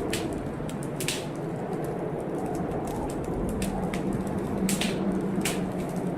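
Wood fire crackling in a fireplace: scattered sharp pops, the loudest about a second in and twice near the end, over a steady storm noise of wind and rain.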